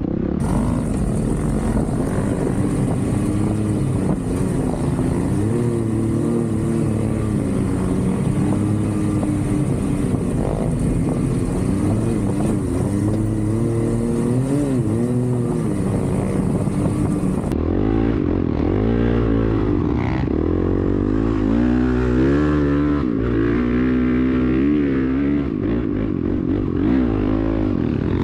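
Off-road vehicle engine revving up and down as it is ridden, its pitch rising and falling again and again. About two-thirds of the way through a high hiss drops away and the revs swing up and down more quickly.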